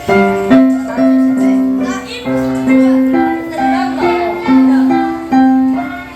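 Piano played by a child: a simple melody over a low note repeated about once or twice a second, each note struck and fading.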